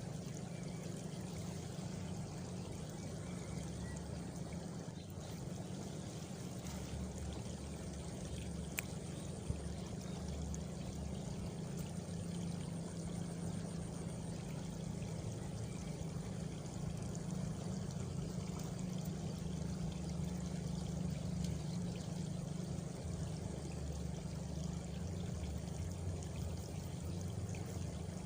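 Steady running water, an even rushing flow. A faint high cricket trill sounds for several seconds in the middle.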